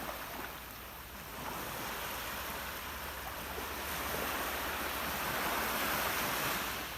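Sea waves washing on a shore, a steady rush that swells to a peak near the end.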